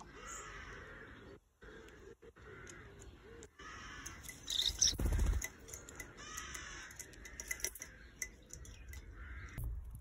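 A run of repeated, rough bird calls, roughly one a second, from birds at a garden feeder. About five seconds in, a louder burst with a low rumble is the loudest moment.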